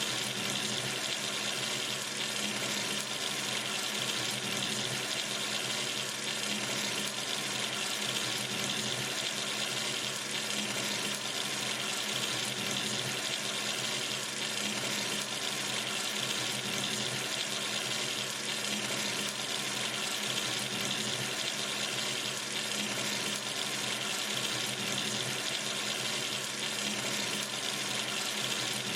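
Kitchen or bathroom sink tap running steadily, water splashing into the basin as a constant, even hiss.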